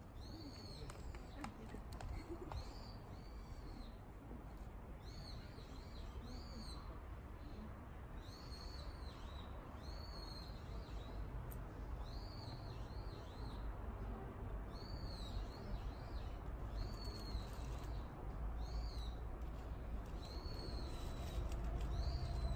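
A bird calling over and over: a short, high call that rises and falls, repeated roughly every one to two seconds over a steady low rumble.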